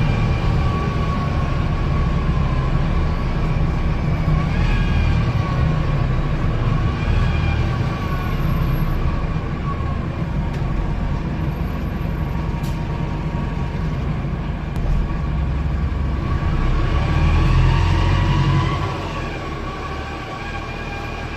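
Wright StreetDeck double-decker bus with a Mercedes (Daimler) OM934 four-cylinder diesel, heard on board while under way: a steady low engine rumble with high whining tones that rise and fall as the bus speeds up and slows. The sound gets quieter about 19 seconds in.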